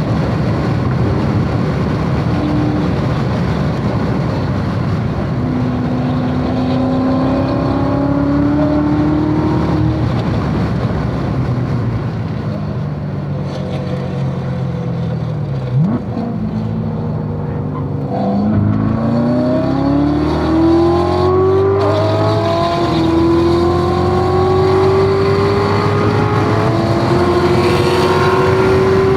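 Corvette C7 Z06's supercharged 6.2-litre V8 at full throttle on track, pitch climbing through gear pulls, then falling under braking with a quick downshift blip in the middle, then climbing steadily again as it accelerates out, over constant wind and tyre noise.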